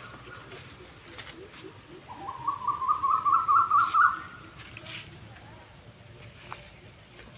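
A bird calling: one rapid run of repeated notes that climbs steadily in pitch for about two seconds, starting about two seconds in.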